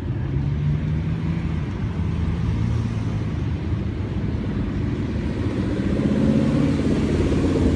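Ford Mustang engine running with a deep, uneven rumble, then revving higher and louder from about five seconds in.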